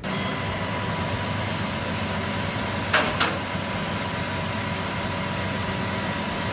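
Vehicle engine running steadily, with two short sharp sounds in quick succession about three seconds in.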